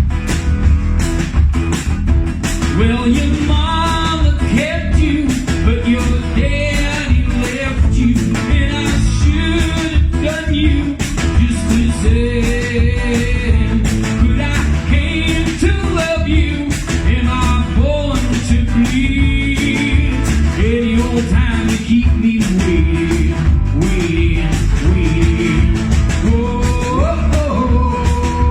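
Rock band playing an instrumental stretch of the song: a steady driving beat under a bending melodic lead line.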